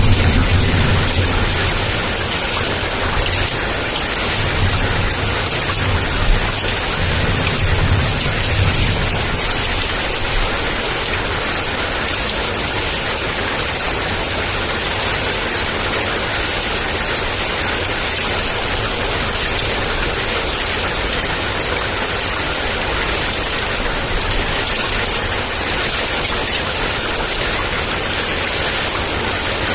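Heavy rain pouring down in a steady hiss. A low rumble of distant thunder runs under it in the first several seconds, then dies away.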